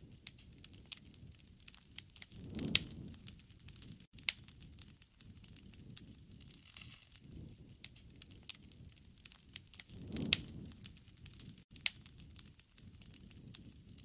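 Wood campfire crackling, with many small sharp pops and two louder pops about three seconds and ten seconds in.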